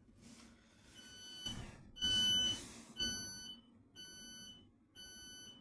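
Thameslink Class 700 train's door warning beeper sounding five times, about once a second, each beep a short two-tone electronic chime. A rush of noise sits under the first couple of beeps.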